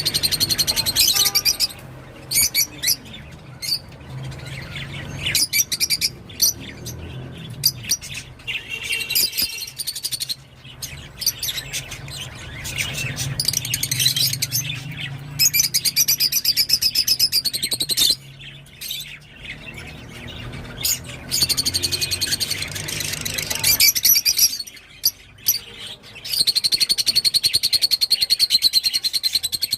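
Rosy-faced lovebird chattering in fast, high, twittering chirps, in several bouts of a few seconds each with quieter gaps between.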